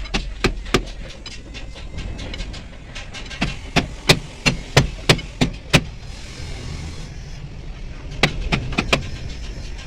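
Repeated hammer strikes on metal, in runs of several blows about three a second, with a short hiss of air near the middle.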